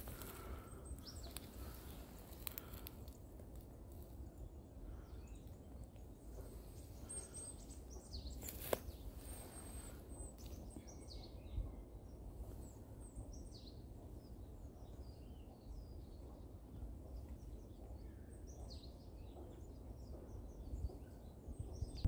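Small birds chirping, many short high calls in quick succession, starting about ten seconds in, over a faint steady low rumble. A single click comes shortly before the chirping begins.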